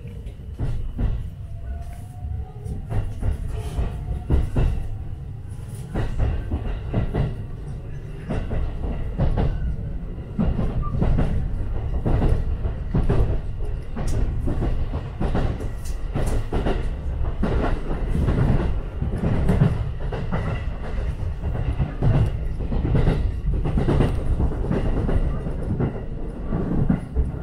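JR Tokaido Line electric commuter train heard from inside the car as it pulls out of a station and gathers speed: a low rumble with the wheels clicking over rail joints, the clicks coming faster and louder as it accelerates. A faint rising motor whine can be heard in the first few seconds.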